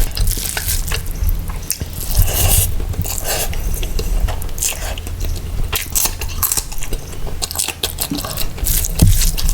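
Close-miked eating of mutton biryani and mutton curry: a constant run of wet chewing and smacking, with clinks against the plate.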